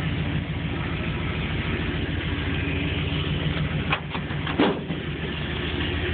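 1987 Chevy crew cab pickup idling steadily through its turbo exhaust, a low even pulsing note. Two short knocks about four seconds in, half a second apart.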